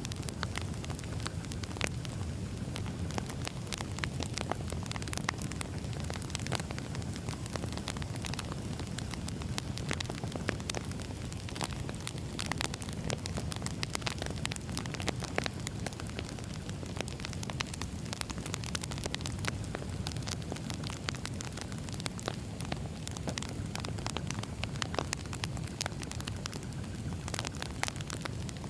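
Campfire crackling: a steady low rumble with many small, irregular pops and snaps.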